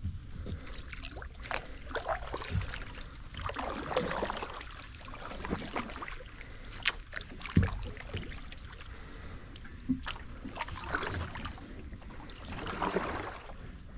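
Kayak paddling in swamp water: paddle strokes swishing and splashing several times, with scattered sharp knocks and clicks.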